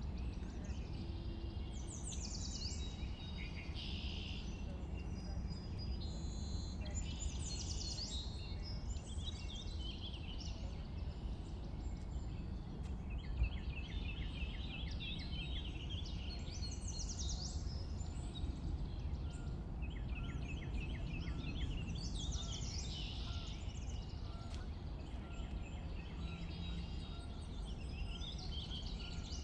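Several songbirds chirping and singing in spring, overlapping short calls and phrases, with fast trills twice near the middle, over a steady low background rumble.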